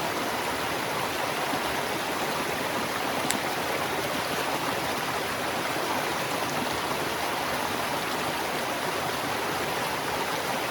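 Steady rushing of flowing water, even throughout, with one faint click about three seconds in.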